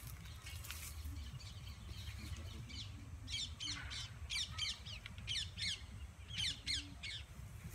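Birds calling: a run of short, quick high calls starting about three seconds in and coming again in a second cluster around six to seven seconds, over a steady low rumble.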